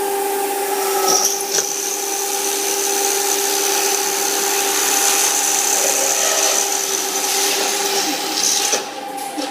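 Automatic multi-head drilling machine (Ferrari E. BZMP4, four vertical drilling units) running a drilling cycle on a curtain-wall profile: a steady motor hum with a hiss, and a high whine while the drills cut from about a second in. The noise drops off near the end as the cut finishes.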